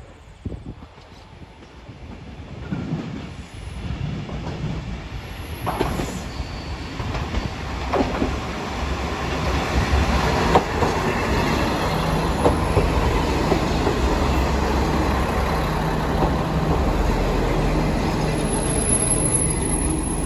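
Diesel railcar approaching along the rails, growing louder over about ten seconds, then holding steady close by, with wheel squeal and rail clicks.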